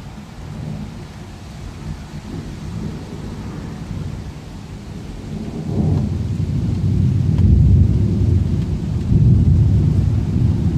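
Thunder rumbling long and low over steady rain. The rumble swells about halfway through and is loudest near the end.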